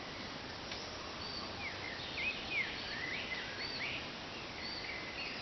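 Songbirds calling: short high chirps repeating about once a second, with a cluster of louder curved notes about two seconds in, over a steady background hiss.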